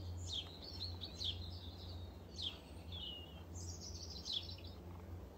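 Birds chirping: a string of short, quick calls, several sliding down in pitch, with a brief trill a little past the middle, over a faint steady low hum.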